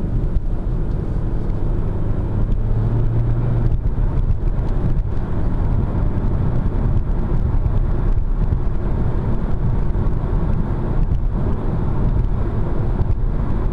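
Car driving along, heard from inside the cabin: steady engine hum and tyre and road noise, with the engine note a little stronger for a couple of seconds early in the stretch.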